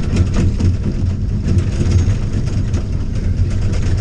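Vehicle driving on a muddy dirt road: a steady low engine drone with frequent rattles and knocks from the bumps.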